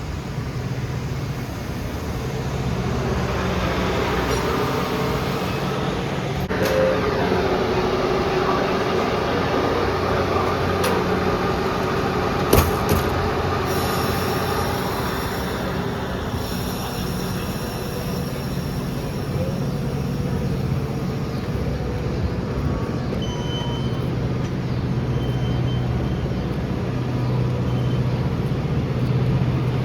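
Commuter train at the station platform: a steady low diesel rumble, with brakes squealing from about three to sixteen seconds in and a sharp clank near the middle.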